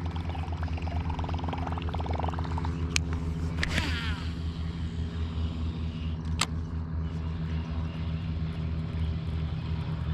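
MotorGuide electric trolling motor on a fishing kayak running with a steady low hum, with a couple of sharp clicks over it.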